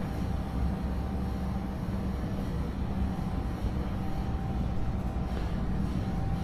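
Steady low hum and rumble of background noise, with a faint thin tone that comes and goes.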